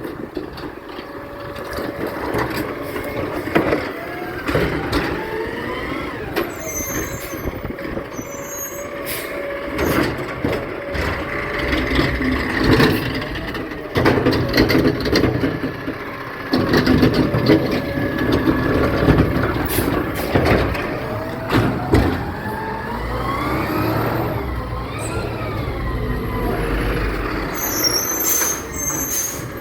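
Garbage truck running, its engine rising and falling in pitch as it revs, with scattered knocks and clanks.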